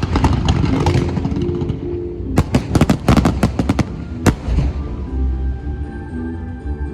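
Fireworks bursting in sharp bangs, several in the first second, a rapid volley about two and a half seconds in and a last single bang after four seconds, over music with held notes that carries on alone afterwards.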